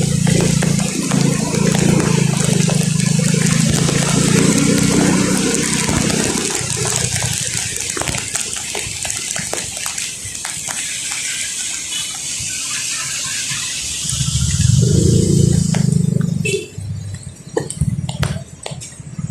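Traffic on a wet road in the rain: a steady hiss of rain and tyre spray, with vehicle engines running through the first six seconds and again briefly about fifteen seconds in. Near the end the hiss drops away, leaving scattered clicks and knocks.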